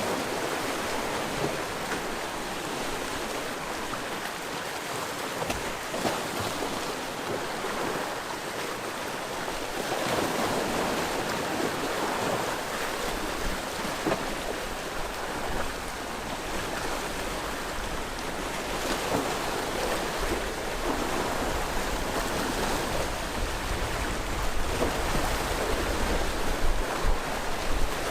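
Sea waves washing steadily onto the shore, a continuous surf wash that swells about ten seconds in and again through the second half.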